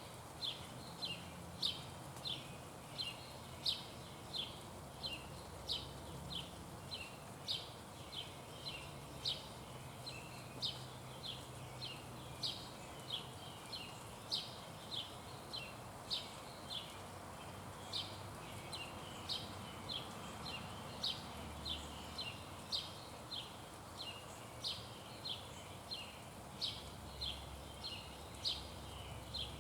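An animal's call, repeated over and over: short, high chips, about two a second, keeping up an even rhythm.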